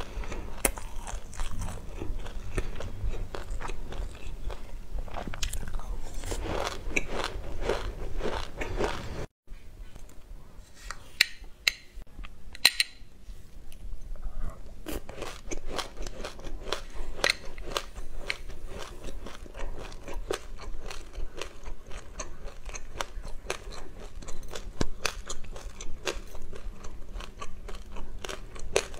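Close-up chewing and crunching of mouthfuls of dry sesame seeds: a dense, irregular crackle of tiny crunches, with a brief break about a third of the way in.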